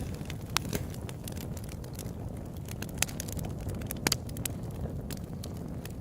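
Open-air campfire burning, with a steady low rush of flame and frequent sharp crackles and pops of wood, a few louder pops standing out.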